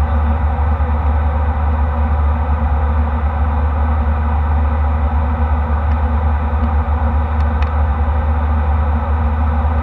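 Steady cabin noise of a jet airliner: a deep, even rumble of engines and airflow.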